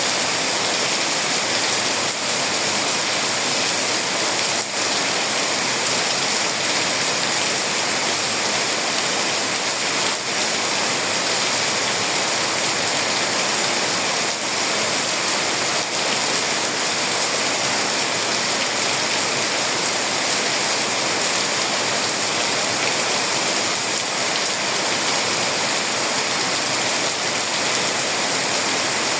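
Heavy rain falling steadily: a dense, even hiss with a few faint taps of drops.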